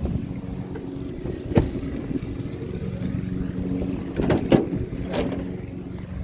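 Vehicle engine running steadily while driving, with a sharp knock about a second and a half in and three more knocks or rattles near the end.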